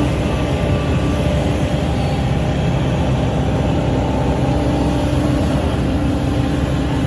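SANY SY135C excavator's diesel engine and hydraulics running steadily under working load. A steady tone in the engine sound fades about a second in and comes back strongly after about five seconds.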